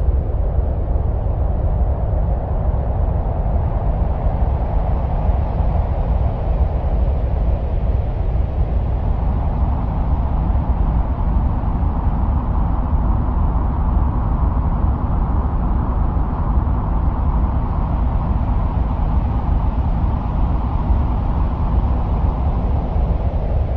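Martian wind sound: a steady, deep rumble with a rushing, wind-like layer above it that slowly swells and rises in pitch, then settles back near the end.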